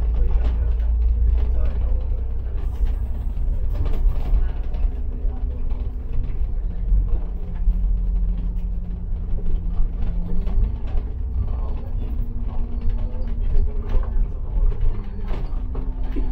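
Ride noise inside a moving Citybus bus: steady engine hum and low road rumble, with light rattles. The engine note holds level, then rises a step about ten seconds in.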